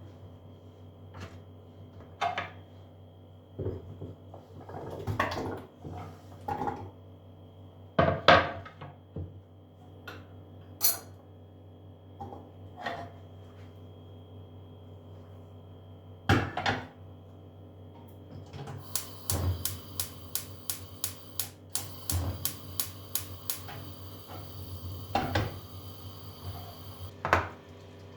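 Kitchen utensils and dishes clinking and knocking against each other and the counter, over a steady low hum. In the second half comes a run of quick, even taps, about three a second.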